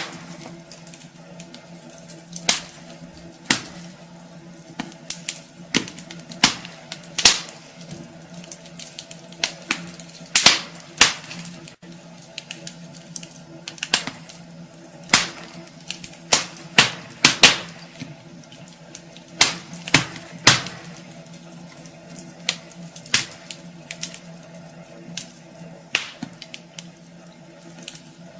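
Wood fire in a fireplace crackling, with irregular sharp pops and snaps, some much louder than others, over a steady low hum.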